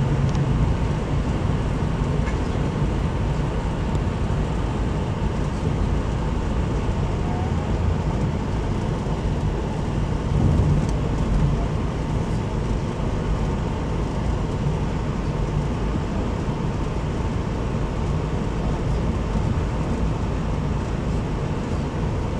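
VIA Rail Skeena passenger train running, heard from on board: a steady low rumble and hiss, with a brief louder swell about ten seconds in.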